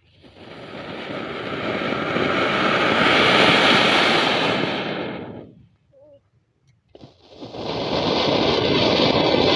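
Firework fountain burning: a loud hissing rush of sparks that builds over about three seconds and dies away after about five. After a second's pause, a second hissing rush starts up and runs on.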